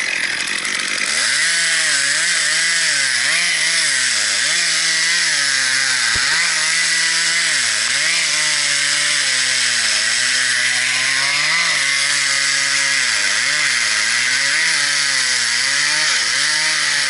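Gas chainsaw running hard as it cuts through wood, its engine pitch dipping under load and recovering over and over.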